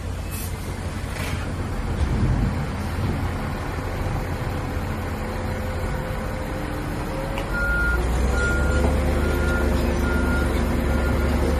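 Heavy diesel earthmoving machinery running with a deep, steady rumble. About two-thirds of the way in the engine gets louder and a reversing alarm starts beeping, about six beeps roughly 0.7 s apart: the machine is backing up.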